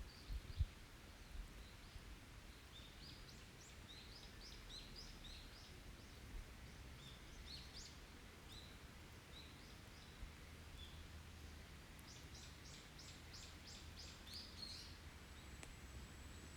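Small forest birds singing with short high chirps and whistles, then a fast run of about six notes a second near the end. A low thump comes about half a second in, and a thin, steady high tone begins just before the end.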